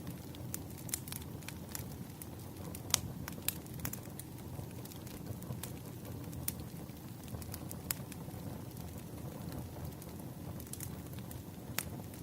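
Firewood burning and crackling: a steady low rush of flame with irregular sharp pops and snaps, the loudest snap about three seconds in.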